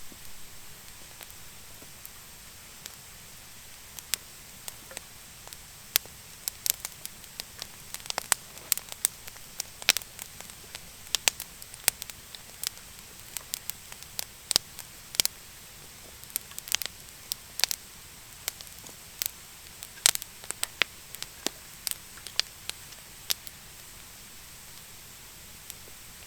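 Wood fire of damp, thin branches crackling, with sharp pops at irregular intervals, thickest through the middle, over a faint steady hiss.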